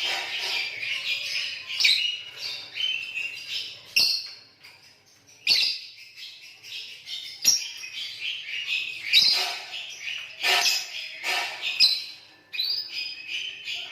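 Lovebirds chattering and trilling in long, high bursts, several in a row with short breaks between them.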